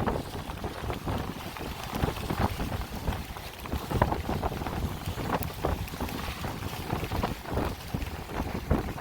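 Wind buffeting the microphone on a boat, in uneven gusts over a low rumble from the boat and the water.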